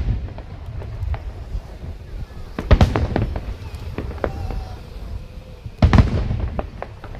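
Aerial fireworks shells bursting with deep booms: two big bursts, about three seconds in and about six seconds in, each followed by a cluster of smaller pops and crackles.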